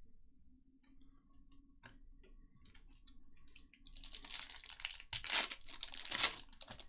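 A few light clicks and taps, then from about four seconds in loud crinkling and tearing: a foil trading-card pack wrapper being ripped open.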